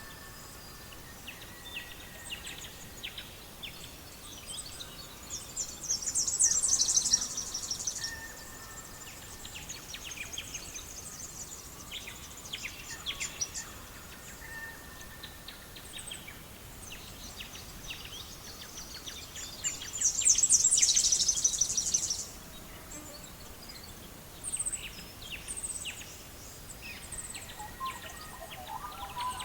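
Songbirds singing: two loud, high, rapid trills, one about six seconds in and one about twenty seconds in, with scattered short chirps and whistled notes between. Faint crackling of a wood fire runs underneath.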